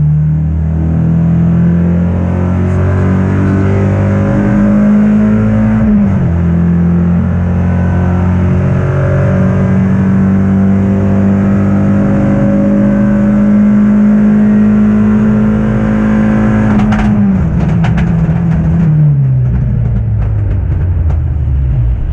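Peugeot 206 RC rally car's four-cylinder engine heard from inside the cabin, pulling hard at high revs. The revs drop sharply about six seconds in, climb again and hold high for about eight seconds, then fall steadily away over the last five seconds, with a few knocks as they begin to fall.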